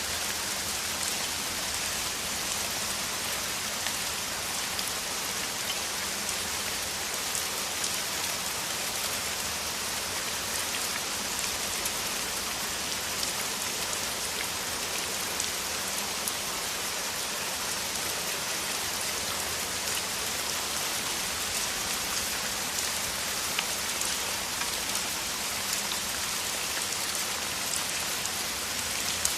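Heavy rain falling in a steady downpour: an even hiss with many small drop ticks scattered through it.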